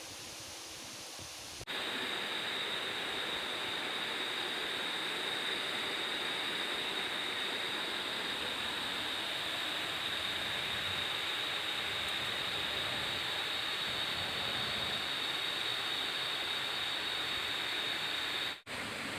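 Waterfall's falling water: a steady rushing noise that gets abruptly louder about two seconds in, with a steady high whine over it. It drops out for an instant near the end.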